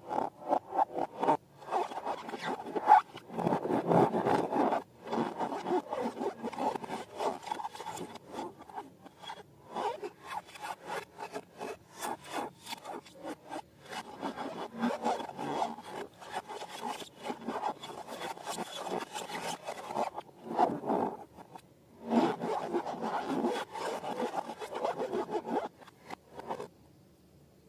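Slime being mixed by hand: rapid, rhythmic wet rubbing and squishing strokes, about three or four a second, with busier spells. It stops shortly before the end.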